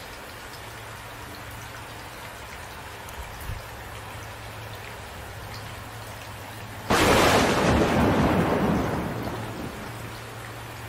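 Steady rain falling, then a sudden loud thunderclap a few seconds before the end that rumbles and fades away over a couple of seconds.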